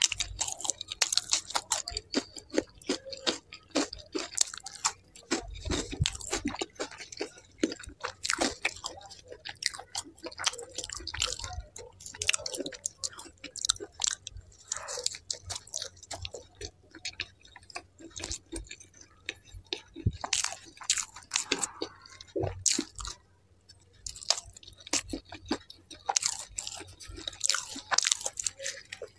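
Close-miked chewing and biting of paneer in kadhai gravy and butter naan: a dense run of short mouth clicks and smacks, with a brief lull a little past two-thirds through.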